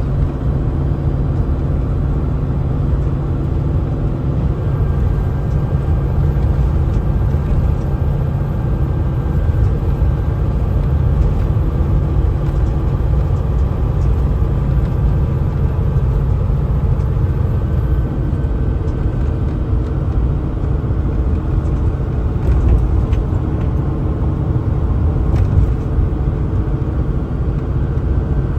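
Kenworth T680 semi truck heard from inside the cab while driving: a steady engine drone over road rumble.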